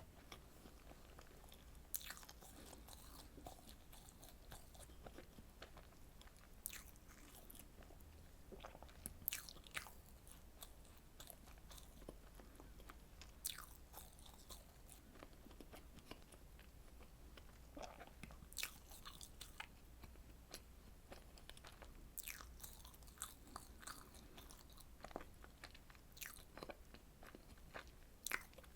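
Quiet, close-miked eating of strawberry desserts: biting and chewing, with irregular sharp wet mouth clicks and smacks every second or so.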